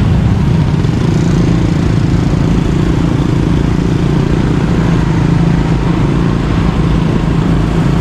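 Motorbike engine running steadily while riding, over a continuous rush of wind and road noise.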